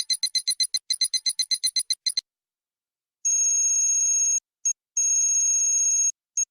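Electronic sound effects: a rapid high trill of about ten pulses a second, like a phone ringing, stops about two seconds in. After a short silence, a steady high electronic tone sounds in two stretches with a brief break between them.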